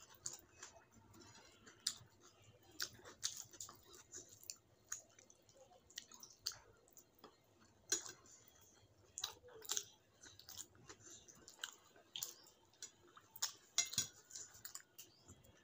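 Close-miked chewing of rice and curry eaten by hand, with many short wet mouth clicks at an irregular pace.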